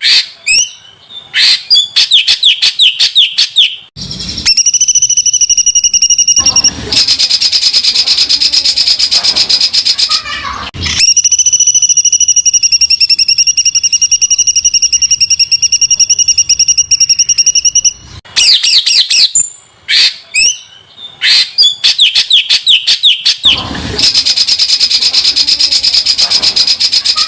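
A songbird singing rough, very dense rapid-fire phrases, the 'tembakan' used to tutor caged birds. Short choppy trills alternate with long strings of very fast repeated notes lasting several seconds each, the longest about seven seconds.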